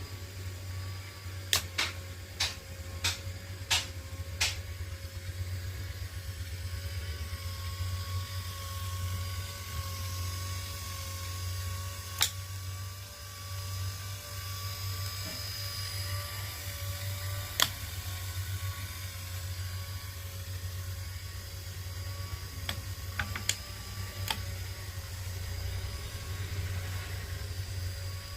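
A small machine running with a steady low hum and a faint whine, with sharp clicks now and then: several in the first few seconds, a couple in the middle and a few more near the end.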